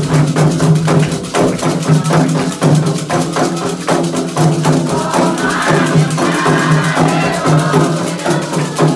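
Candomblé ritual drumming: atabaque hand drums playing a fast, dense rhythm with a bell or wood-block pattern, and voices singing over it about halfway through.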